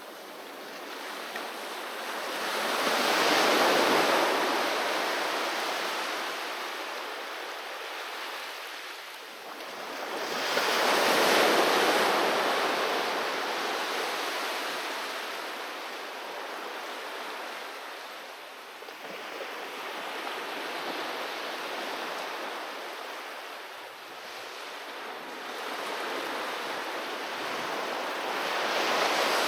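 Ocean waves breaking and washing up a beach: a steady hiss of surf that swells and ebbs, with three larger waves cresting at intervals of several seconds.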